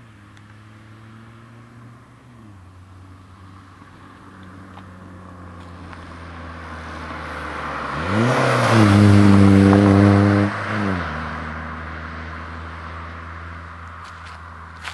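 Škoda Felicia 1.9 D diesel engine heard through its exhaust, growing steadily louder. About eight seconds in it revs up sharply, holds the higher revs for about two and a half seconds, then drops back and fades. A brief click comes near the end.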